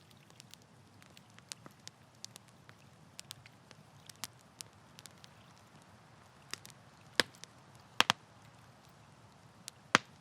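Wood campfire crackling: scattered small snaps and pops over a soft, steady low burning noise. A few sharper, louder pops come in the last three seconds.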